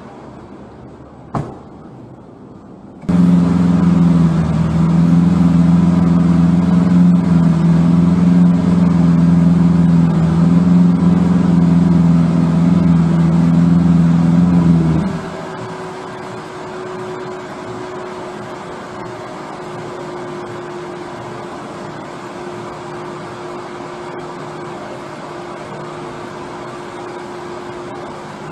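A vehicle engine idling with a loud, steady hum that starts abruptly a few seconds in and cuts off about halfway through. It leaves a quieter steady hum of street traffic. A single sharp click comes about a second in.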